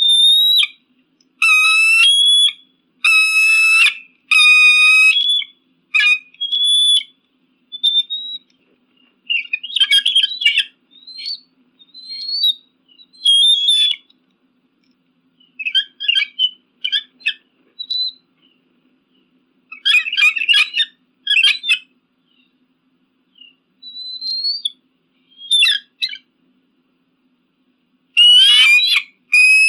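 Eagle calling: a series of high, piercing whistled calls and rapid chattering runs, each a second or two long, separated by short silences.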